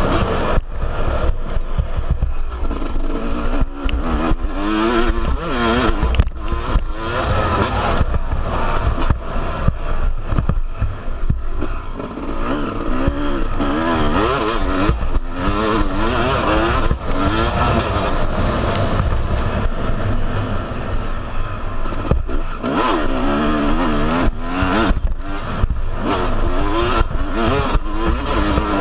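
Yamaha YZ250 single-cylinder two-stroke motocross bike ridden hard, heard on board: the engine revs up and drops back again and again, with sharp clattery knocks throughout.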